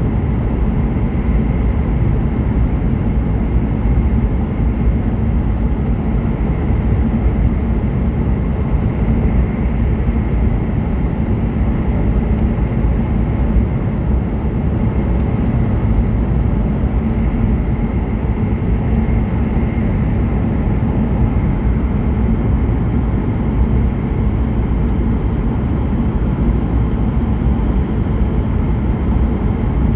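Hokuriku Shinkansen train running steadily, heard from inside the passenger car: an even, loud rumble of wheels and track with a faint high steady tone over it.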